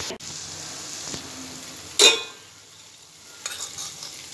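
Onion, tomato and herb masala frying in a metal pot and being stirred with a perforated metal ladle. A loud knock with a short metallic ring comes about two seconds in, and a few light clicks follow.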